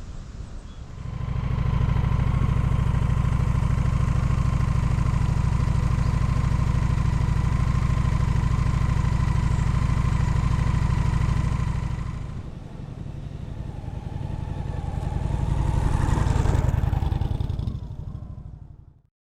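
Honda VT750S motorcycle's V-twin engine running steadily, easing off about twelve seconds in, building up again, then fading away.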